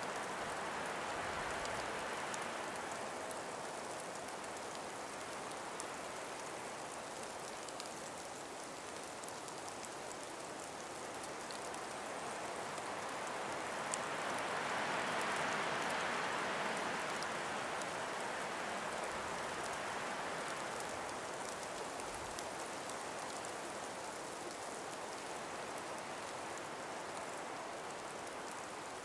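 Gentle wind breeze blowing through ice- and snow-covered forest trees: a steady hiss that swells softly twice, with a few faint ticks.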